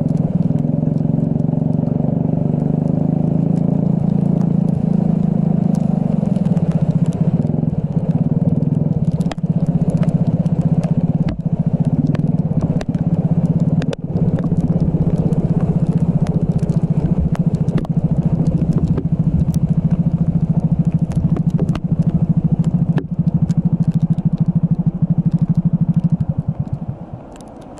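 Racing kart engine running hard at a steady high pitch, with sharp clicks and crackles scattered through it. Just before the end the engine sound drops away sharply as the kart comes off the power.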